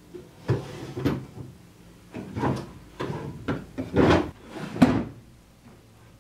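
Wooden drawers being pulled open and pushed shut one after another, about seven sliding knocks and thuds, the loudest two near the end.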